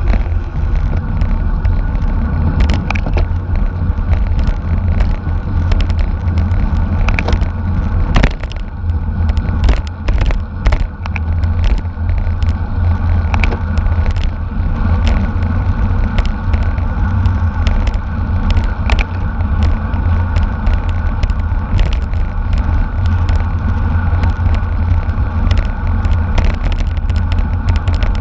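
Wind rushing over the microphone and road rumble from a racing bicycle riding at speed, with scattered clicks and rattles throughout.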